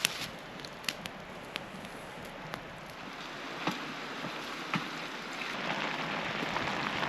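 Marinated pork frying in a hot pan: a steady sizzle with scattered sharp pops, the sizzle growing a little louder about five seconds in.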